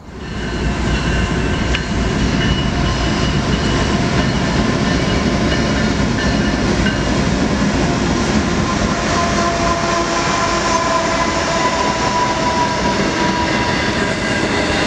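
BNSF diesel locomotives hauling a stack intermodal train pass close by: engines running and steel wheels rumbling over the rails, loud and steady. A faint thin whine joins in about nine seconds in.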